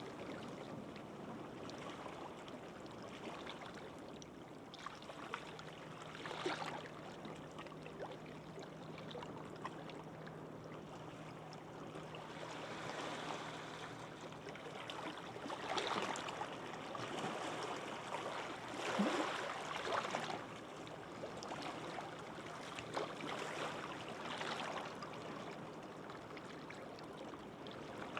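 Gentle sea waves washing onto a beach, soft surges rising and falling every few seconds, with a faint steady low hum through most of it.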